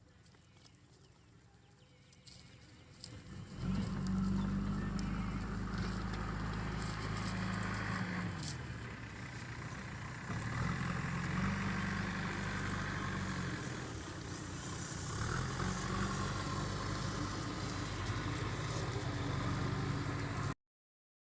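A motor vehicle's engine comes in about three seconds in and runs steadily, its pitch dropping and rising several times, then the sound cuts off suddenly near the end.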